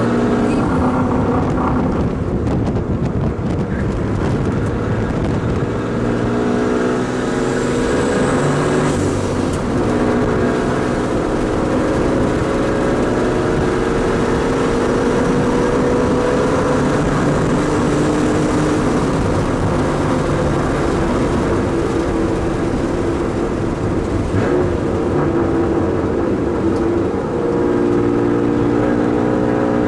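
Inside the cabin of a BMW drift car: the engine runs hard, its revs rising and falling again and again with the throttle through the slides, over a constant rush of road and tyre noise.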